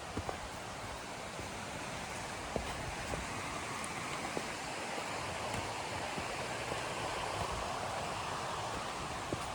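River water running in a steady rush, growing slightly louder, with a few faint clicks over it.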